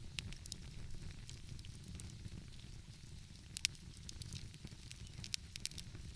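Wood fire crackling, with scattered sharp pops and one louder pop about three and a half seconds in, over a steady low rumble.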